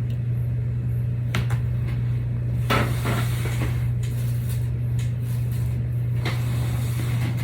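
Steady low hum with a few small clicks and knocks of objects being handled on a work surface, one about a second in, a cluster near the middle and one more near the end.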